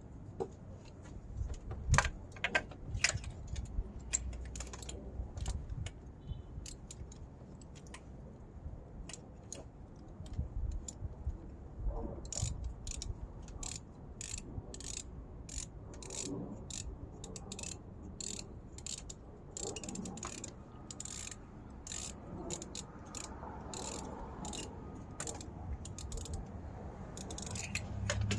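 Ratchet wrench clicking in runs as it is worked back and forth on a spark plug, with the clicks coming thick and fast in the middle stretch. The plug is stubborn to remove.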